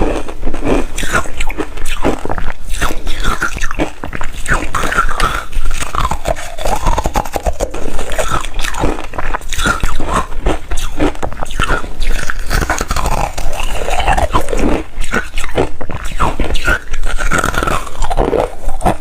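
Hard refrozen ice being bitten and chewed close to the microphone: a dense, irregular run of loud crunches and cracks.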